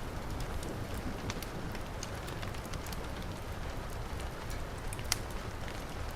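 Heavy rain falling steadily, mixed with the crackle of a wood fire: scattered small pops and one sharper pop about five seconds in.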